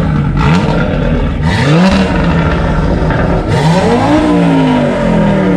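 Audi RS3's turbocharged five-cylinder engine, with a Milltek exhaust, revved three times while parked, each rev climbing and dropping back to idle; the exhaust is loud.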